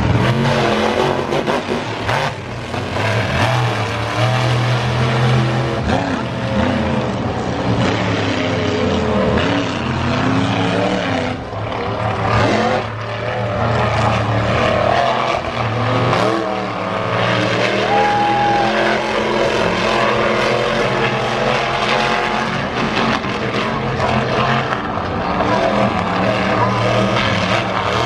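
Monster truck engine running and revving hard through a run, its pitch rising and falling again and again.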